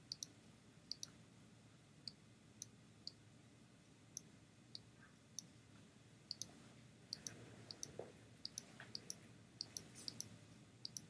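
Computer mouse clicking: short, sharp clicks at irregular intervals, some in quick pairs, coming more often in the second half.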